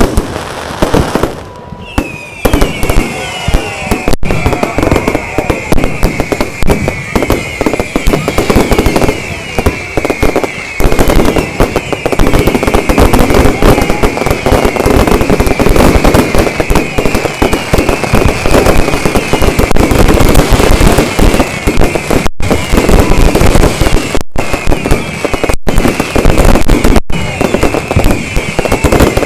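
A fireworks barrage: a dense, continuous run of rapid bangs and crackles. From about two seconds in, many high, short falling whistles sound over it, and the bangs thicken into a steady rumble around the tenth second.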